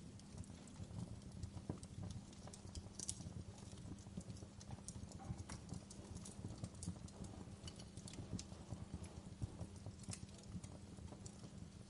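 Wood campfire crackling, with frequent irregular small pops and snaps over a steady low background noise.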